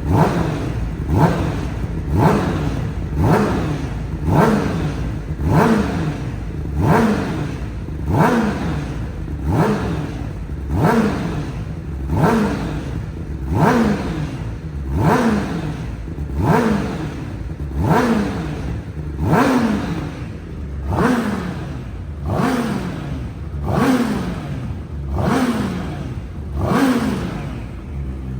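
Honda CBR1000RR SP2 race bike's inline-four engine, through a full titanium Akrapovic exhaust, blipped again and again, about one rev every one and a half seconds. Each rev climbs sharply and drops back to idle.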